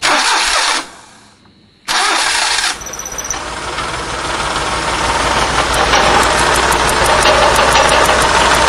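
Car engine being cranked by its starter in two short bursts, then catching and running, getting steadily louder over the next few seconds. A fast, faint ticking rides on top near the end.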